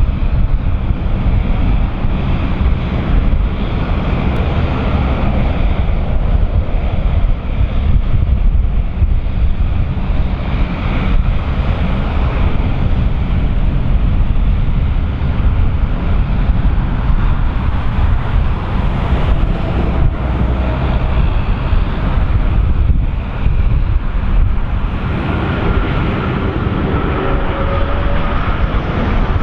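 Wind buffeting the microphone over the steady rumble of an approaching Airbus A330's Rolls-Royce Trent 700 engines on landing approach. Faint engine whine tones come in near the end.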